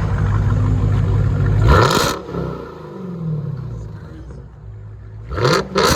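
Dodge Challenger Hellcat's supercharged 6.2 L Hemi V8 held at high revs through a loud aftermarket exhaust, then let off about two seconds in with a sharp burst as the revs fall away. Near the end there is a quick throttle blip with two sharp bursts.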